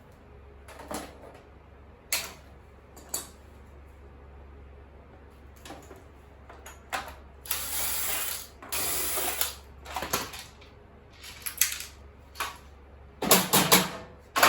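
Clicks, knocks and rattles of a plastic appliance being handled and opened, with two rasping stretches of about a second each midway and a quick run of loud clicks near the end.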